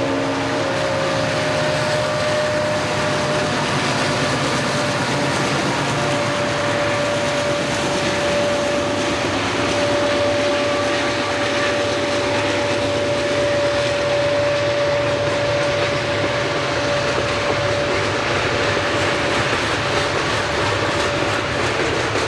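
Conrail freight train passing: steady rumble and rattle of the cars on the rails, with the last of the locomotive horn dying away in the first second and a steady high whine running through the middle.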